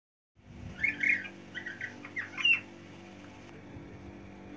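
A small bird perched up in the roof beams whistling: a run of short, quick chirps that stops about two and a half seconds in, over a steady low hum.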